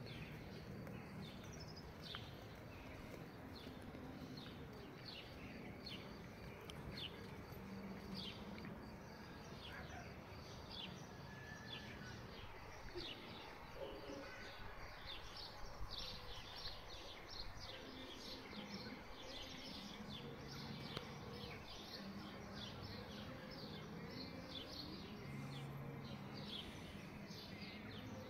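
Small birds chirping: many short, high notes repeated all through, over a faint steady outdoor background noise.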